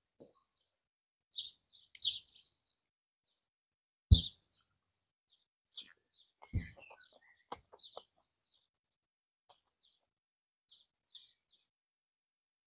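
Small birds chirping in short, high, scattered notes. Between them come a few sharp close knocks and clicks, the loudest about four seconds in and more around six and a half to eight seconds.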